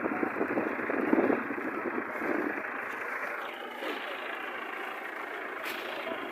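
Tractor engine running steadily, heard as a dull muffled noise, with indistinct voices over it in the first two seconds or so.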